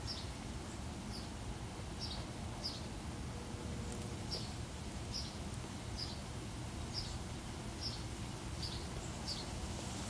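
A small bird repeating a short, high, falling chirp about once a second, over a steady low background rumble.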